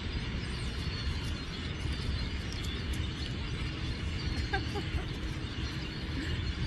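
Scattered chirps and short calls from a large flock of birds over a steady low rumble.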